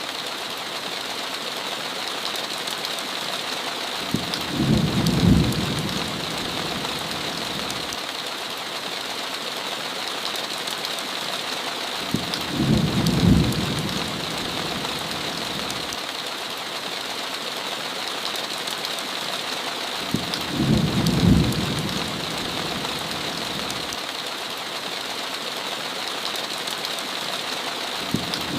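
Heavy rain falling steadily on a window, with a short low rumble of thunder three times, about eight seconds apart.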